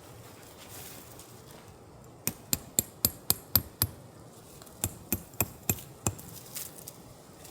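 Hammer blows in two quick, even runs: about seven sharp strikes, a short pause, then five more.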